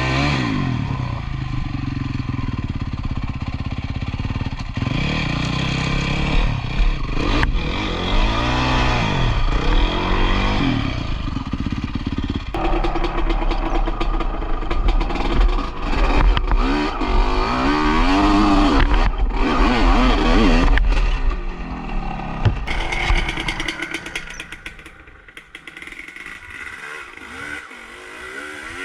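Motocross bike engine revving hard and repeatedly, its pitch climbing and falling with the throttle. It fades and drops away about 24 seconds in.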